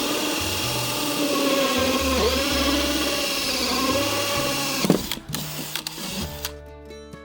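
Power drill running under load, its pitch dipping and recovering as it cuts, then stopping about five seconds in with a sharp click. Music starts near the end.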